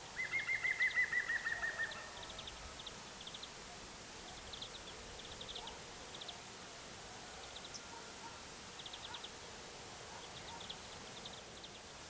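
Songbirds calling: one loud, rapid trill of about a dozen notes, falling slightly in pitch, in the first two seconds, followed by scattered short bursts of high, quick chattering notes.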